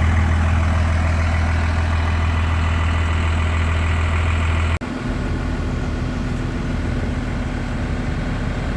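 Truck engine running steadily with a strong low drone while driving. About five seconds in the sound changes abruptly and the low hum shifts.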